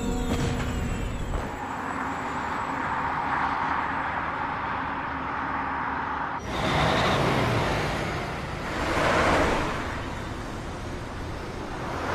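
Road traffic: a steady background of noise, then vehicles passing by as three separate swells of noise a couple of seconds apart.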